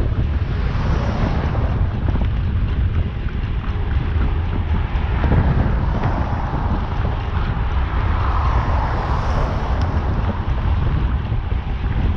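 Strong wind buffeting the camera microphone on a moving bicycle: a steady low rumble with rushing noise.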